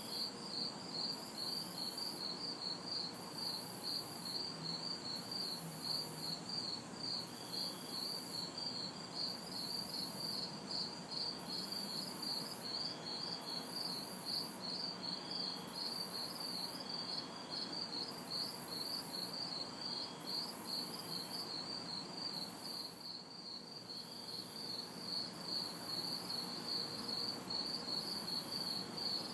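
A chorus of crickets chirping steadily at about three chirps a second, with a higher-pitched insect buzz pulsing on and off every second or so. Beneath them is a faint steady hum of distant city traffic.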